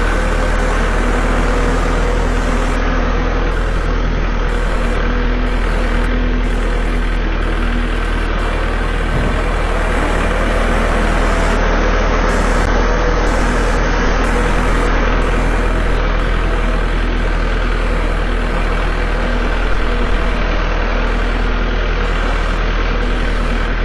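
Farm tractor engine running at a steady, even speed while the tractor is driven along a rough farm track.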